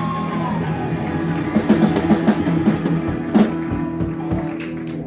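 Live rock band playing, with guitar and bass holding a chord under a run of drum hits. A sung note trails off in the first half second.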